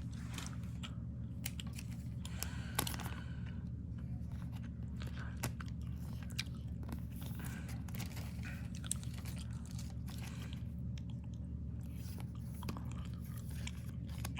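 Faint ticks and rustles of trading cards being handled and shuffled, over a steady low hum.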